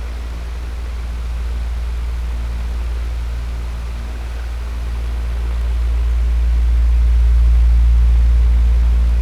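Electric fan running steadily: a low hum under an even rush of air, slowly swelling and easing in loudness.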